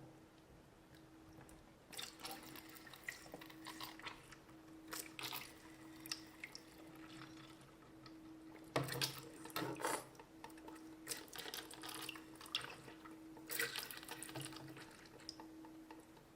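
Faint, irregular splashing and dripping of water as a small toy floating fountain, worked by a hand squeeze pump, sprays water back into the water it floats in, with a faint steady hum underneath.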